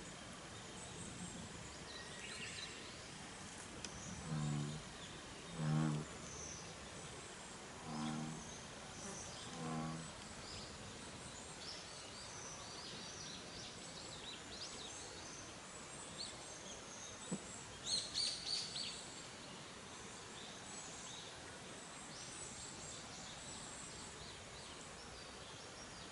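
Campfire and lakeside ambience: birds chirping in short high calls over a steady faint background, four low, deep animal calls between about four and ten seconds in, and a short run of crackles from the fire a little past the middle.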